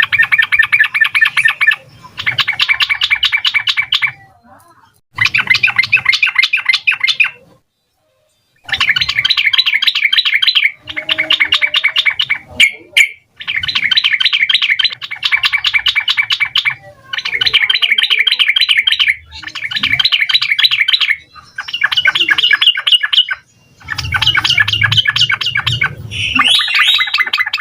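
Yellow-vented bulbul (trucukan) singing a rapid, bubbly song, delivered as about a dozen dense phrases of roughly two seconds each with short breaks between them.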